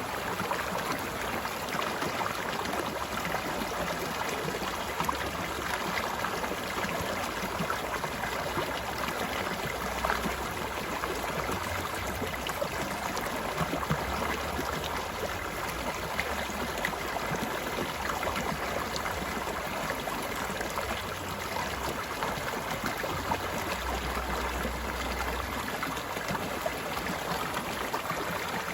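Steady rush of a flowing stream, with many small trickles and gurgles.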